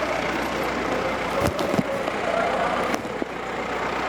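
Stunt cars' engines running in a steady noisy din, mixed with crowd voices, with a few sharp knocks about a second and a half in and again near three seconds.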